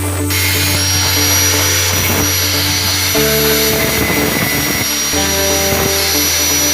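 Background music with steady bass notes, over a steady whir from an electric hand drill's motor running, with a thin high whine; the whir starts at the beginning and cuts off at the end.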